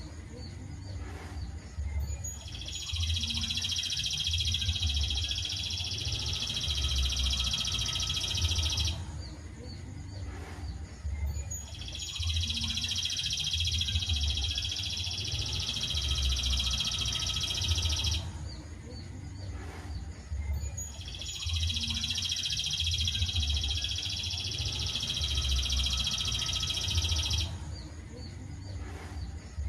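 A looped songbird training (masteran) recording. Long phrases of dense, high, trilling bird song, each about six seconds, are repeated three times with short gaps between them.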